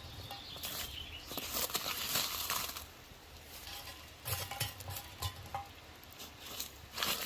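Cooking sounds from a burger being made: stretches of crackling, hissing frying come and go, with light clicks and clinks of utensils between them.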